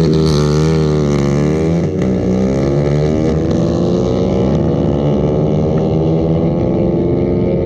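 Drag-racing motorcycle engines running loud. After about two seconds of wavering revs, the pitch climbs steadily for several seconds as a bike accelerates.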